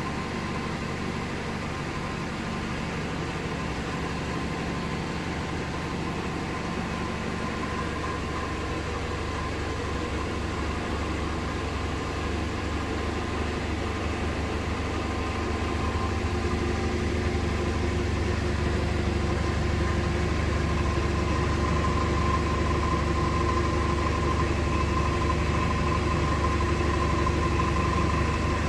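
Vehicle engine idling with a low steady hum and a thin high whine over it; the whine and the overall sound grow louder about halfway through.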